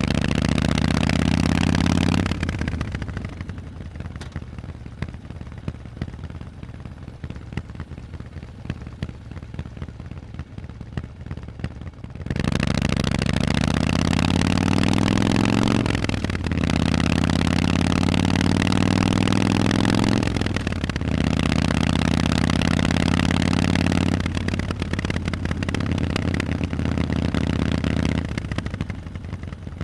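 Harley-Davidson Forty-Eight's air-cooled 1200 cc V-twin through loud Vance & Hines exhausts. It pulls hard at first, then the throttle closes and it drops to a low, quieter burble for about ten seconds. Then it accelerates again through the gears, the revs rising with a brief dip at each shift, four shifts a few seconds apart.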